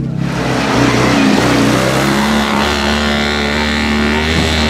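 Citroën 2CV's 602 cc air-cooled flat-twin engine pulling the car up a steep, loose rocky climb, its pitch holding steady.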